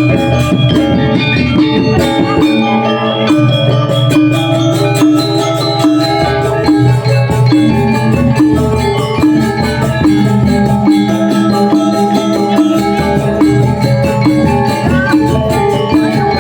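Balinese gamelan gong ensemble playing a tabuh alus piece: bronze metallophones ringing in dense, even rhythms over low sustained tones, with drum strokes.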